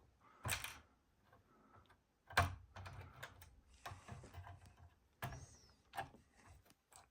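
Plastic Lego pieces clicking and knocking as a brick-built model's panels are opened and handled: a few sharp clicks spread over several seconds, with faint light rattling between them.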